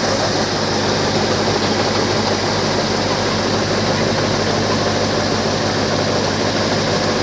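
Diesel engine of a paddy combine harvester running steadily under load.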